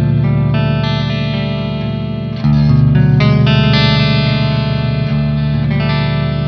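Electric guitar played through a Boss Katana 100 MkII amplifier, holding ringing chords that change to a new chord about two and a half seconds in and again about five seconds in; the second chord is struck louder.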